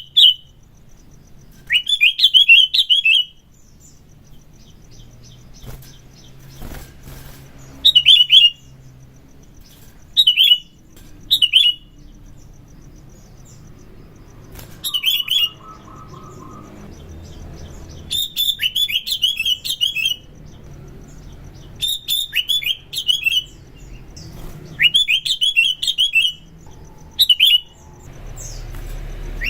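Sooty-headed bulbul (kutilang) singing: about ten short phrases of rapid, chattering notes, with pauses of one to a few seconds between them.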